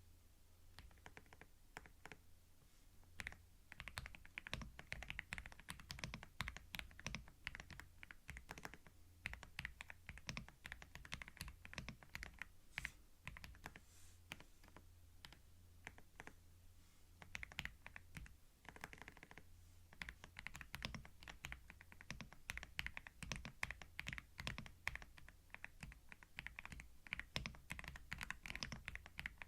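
Typing on a computer keyboard, close-miked in binaural stereo: quiet, rapid key clicks in runs with brief pauses, starting in earnest a few seconds in.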